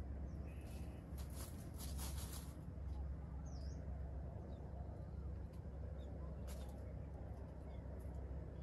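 Dry leaf litter crackling in short clicks and rustles, most of them about one to two and a half seconds in, from a small ground bird moving about in the leaves, with one brief high chirp midway, over a steady low hum.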